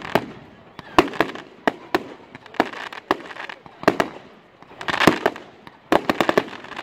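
Fireworks display: a run of sharp bangs from exploding shells, about two a second, over a rising and falling crackling hiss. Near the end comes a quick cluster of cracks.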